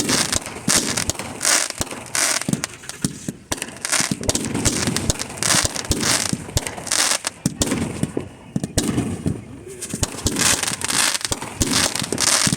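Fireworks going off without a break: rapid sharp bangs and crackling bursts, with a short lull about two-thirds of the way through.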